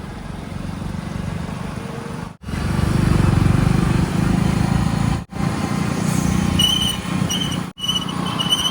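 Heavy diesel machinery engines running steadily at a site where a backhoe loader fills tippers and tractor trolleys. The engine sound cuts out abruptly three times. Near the end a high-pitched tone sounds in short repeated spurts.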